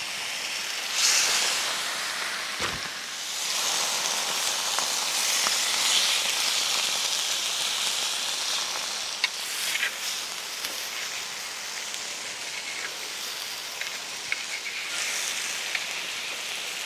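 Meat frying on a hot cooking surface, a steady sizzle with a few sharp pops of spattering fat. The hiss swells about a second in and again from about four to seven seconds.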